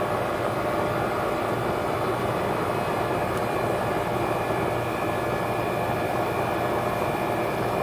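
Old Goodman air-conditioner condensing unit running and cooling: a steady rush of air from the condenser fan over a low, even hum.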